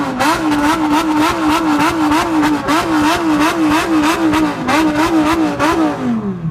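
Supercar V10 engine with an aftermarket exhaust revved hard: it shoots up at once, is held at high revs with a fast, regular rise-and-fall in pitch, then drops back near the end. Loud.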